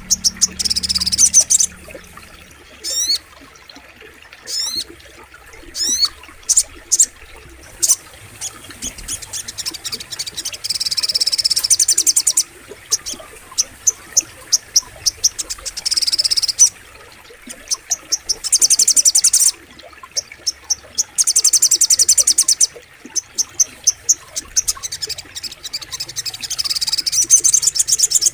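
Sogok ontong bird calling: repeated bursts of rapid, high trilling, each lasting a second or two. A few quick rising whistles come in the first several seconds.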